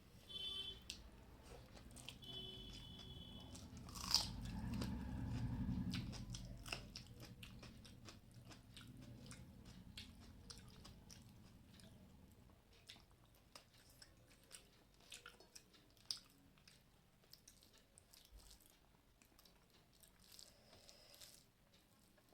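Close-up chewing and crunching of a mouthful of rice with crisp fried fish, with many small wet clicks of the mouth; louder in the first few seconds, then quieter.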